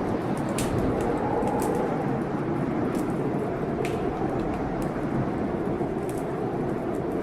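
Blizzard wind blowing steadily, swelling and easing in a low howl, with a wood fire in a fireplace crackling over it in sharp pops about once a second.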